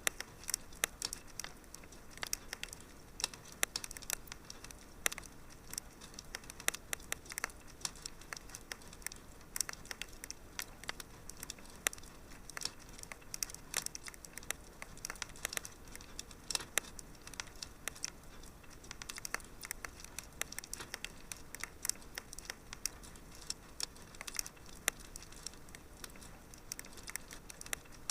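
Wood fire crackling in a fireplace: a dense, irregular run of small sharp pops and snaps over a faint steady hiss of flame.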